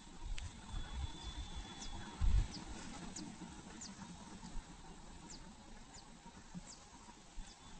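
Faint, very short, high bird chirps, about a dozen scattered through, over low thumps and rumble that are loudest a little over two seconds in.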